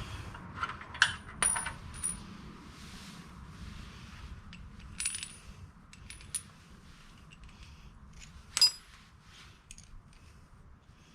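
Metal tools and hardware clinking and tapping against each other while a trailer hitch is unbolted: a handful of sharp clinks with a brief high ring, the loudest near the end.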